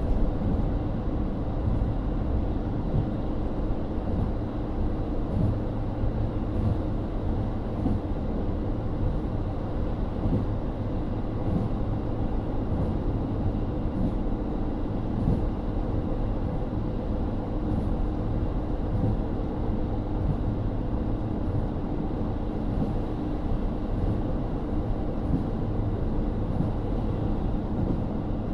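Steady running sound heard inside a KIHA40 Type 350 diesel railcar under way: the N-DMF13HZB diesel engine hums under a continuous rumble of the wheels on the rails.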